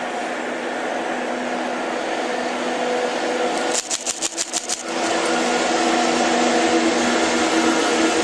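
Freight train hauled by EF64 electric locomotives running past, a steady rumble with several humming tones from the locomotives' motors and blowers, slowly getting louder. About four seconds in there is a brief flutter of rapid, evenly spaced pulses lasting about a second.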